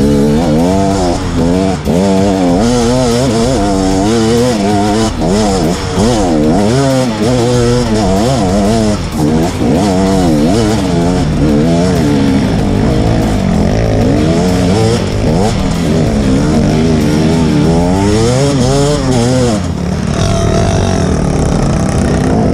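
Two-stroke dirt bike engine (KTM 250 EXC) revving hard with the throttle worked on and off, the revs rising and falling about once a second on a slippery muddy trail. About twenty seconds in it settles to a steadier, lower note.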